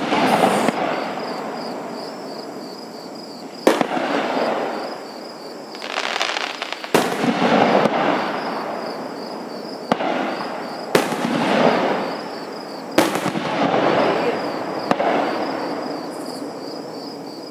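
Aerial fireworks shells bursting overhead, six sharp bangs one to three seconds apart. Each bang is followed by a long echo that dies away over about two seconds.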